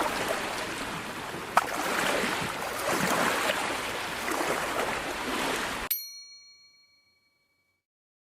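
Steady rushing noise of sea water and wind, with one sharp click about a second and a half in. Near six seconds it cuts off abruptly and a single bell-like ding rings out, fading over about two seconds.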